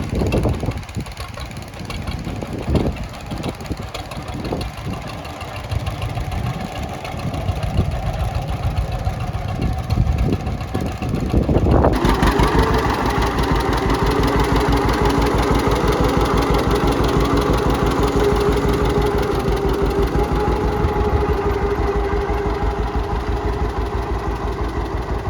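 Tractor engine firing unevenly with irregular knocks and thumps, then about halfway through it catches and settles into a steady idle.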